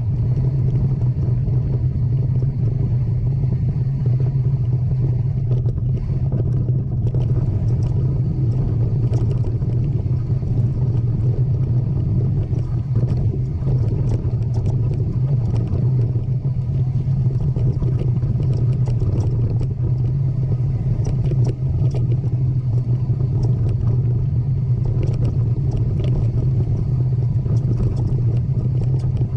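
Steady low rumble with many small rattling clicks scattered through it, like a ride over rough ground.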